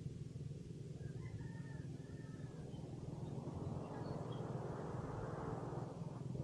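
A rooster crows faintly in the distance over a steady low mechanical hum. A rushing noise swells and fades in the second half.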